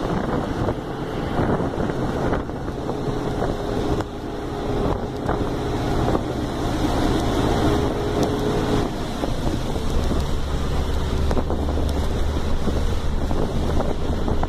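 A vehicle travelling on a highway: steady road and wind noise with a low engine hum, which grows stronger about ten seconds in.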